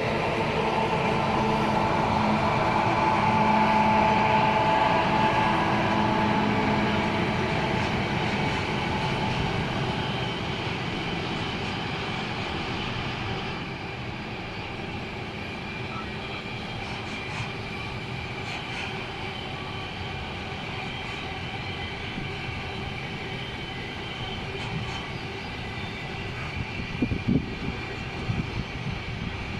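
Electric freight train passing: a steady pitched whine, loudest in the first several seconds, fades away, leaving the steady rolling noise of the freight wagons going by, with a few sharp knocks near the end.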